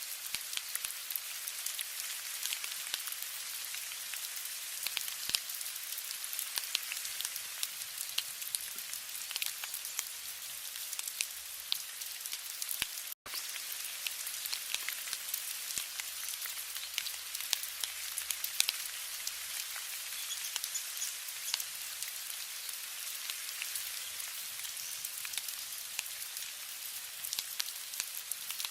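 Steady rain falling, a constant hiss with many separate drop hits. The sound cuts out completely for an instant about thirteen seconds in.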